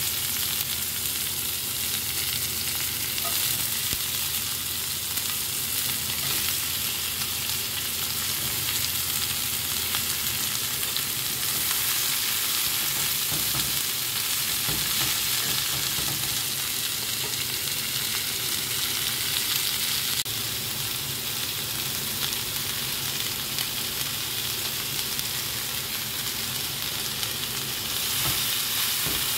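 Sliced onions and bell peppers sizzling in a hot cast-iron skillet: a steady frying hiss that gets a little louder near the end.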